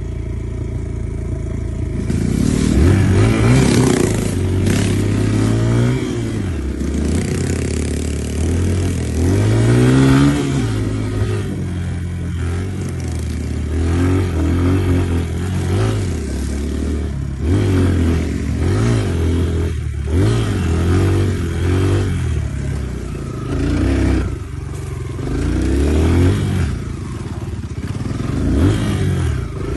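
Dirt bike engine running under throttle, its pitch rising and falling again and again as the revs climb and drop, with the steepest climbs a few seconds in and again about ten seconds in.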